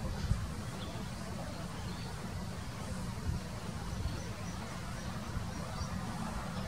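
A low, steady rumble with faint, short, high-pitched bird chirps scattered through it.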